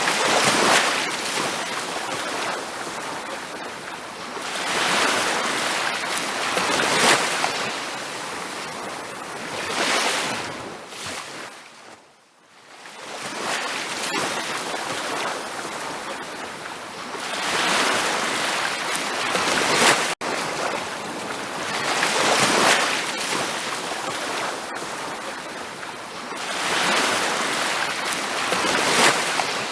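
Ocean surf breaking on a beach, a wash of water that swells and recedes every few seconds. The sound briefly fades almost to silence about twelve seconds in.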